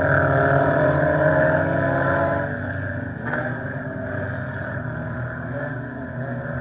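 Scramble race cars' engines running on the track, several engine notes overlapping. The sound is louder for the first two seconds or so, then drops as the cars pull away.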